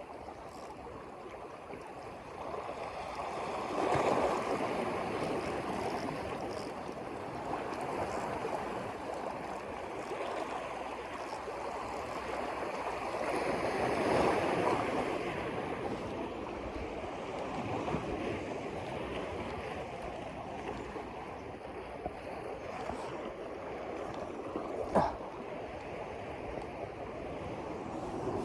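Water washing and lapping in a steady rushing wash that swells louder twice, with one sharp knock near the end.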